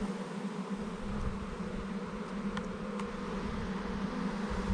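Honeybee swarm buzzing close by: a steady, even hum of many bees, with a couple of faint ticks in the middle.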